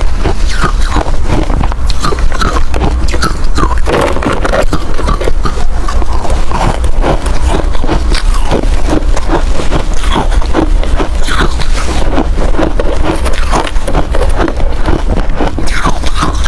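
Close-up crunching of hard crushed ice being bitten and chewed, a dense, continuous run of loud cracks and crackles.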